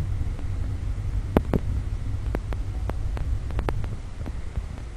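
Steady low rumble inside an airliner's cabin on the ground, with a string of irregular short clicks and knocks starting about a second and a half in.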